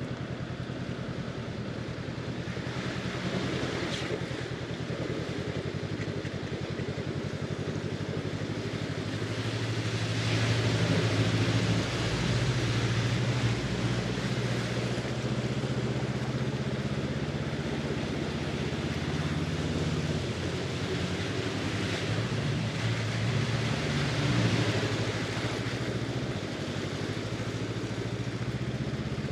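Honda CB500X parallel-twin engine running while the motorcycle is under way, over a steady rushing noise. The engine note grows louder about ten seconds in and shifts again near twenty seconds.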